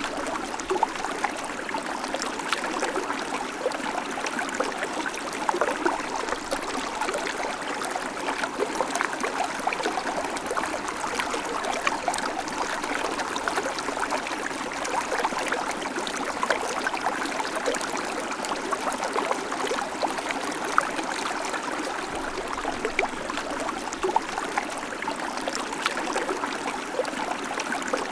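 Babbling creek: water running steadily over stones, with constant small splashes and gurgles.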